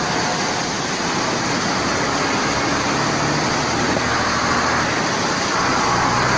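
Road traffic: a steady rush of noise with a low vehicle engine hum underneath, the hum growing a little stronger near the end.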